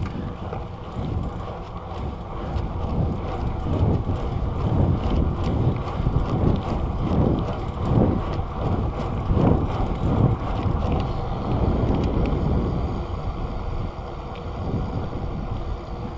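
Skateboard wheels rolling over street pavement, a steady rumble with irregular swells, mixed with wind buffeting the microphone.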